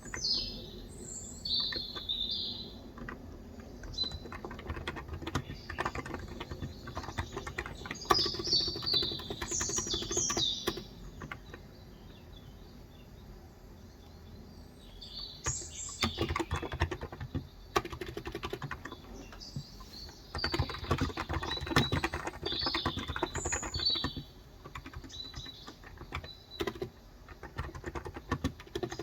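Typing on a Cox Endeavor electro-capacitive (Topre-style) tenkeyless keyboard with 35 g switches, in quick bursts of keystrokes with a pause about halfway through. Small birds chirp in short, high phrases throughout.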